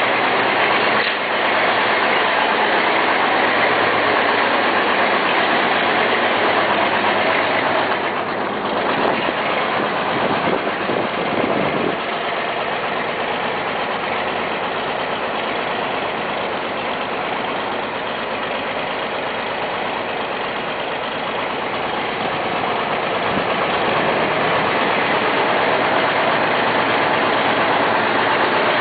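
John Deere 4320's six-cylinder diesel engine running steadily while still cold from a cold start, with a clattery diesel sound. It turns a little quieter for a while near the middle.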